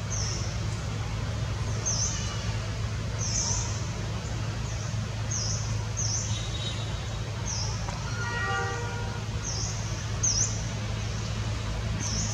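Outdoor background with a short, high, falling bird chirp repeating about once a second over a steady low hum. A brief pitched tone sounds once, about eight seconds in.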